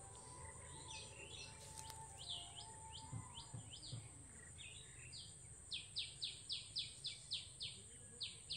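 A small bird calling: short, high notes that slide downward, scattered at first, then a run of about three a second through the second half.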